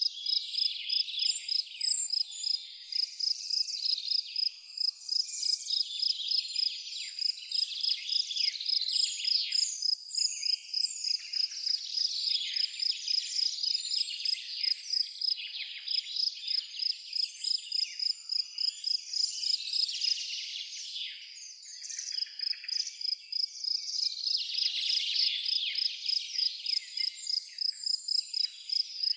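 An insect, likely a cricket, chirping in a fast, even pulse on one high note, pausing briefly about two-thirds of the way through, while several birds sing and chirp over it.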